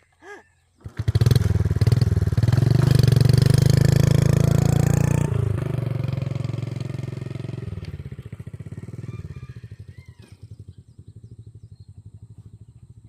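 Old motorbike engine running: it comes in loudly and suddenly about a second in, revving hard with a fast pulsing beat, drops off after about five seconds, then fades gradually as the bike moves away.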